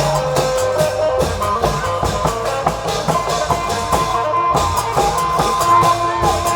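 Isan klong yao long-drum band playing: steady, frequent drum strokes with a sustained melody line above them.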